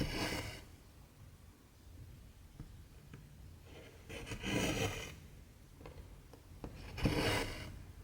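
Cotton embroidery thread being pulled through 14-count cross-stitch fabric: three short rasping swishes, one at the start, one about four and a half seconds in and one about seven seconds in.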